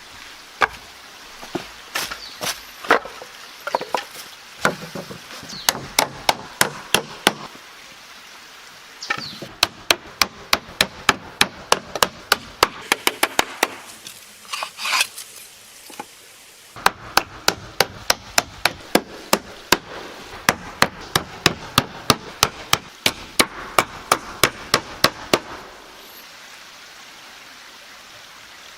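Hammer striking nails into wooden pallet boards in long, fast runs of sharp blows, about three or four a second, with short pauses between runs; the hammering stops near the end.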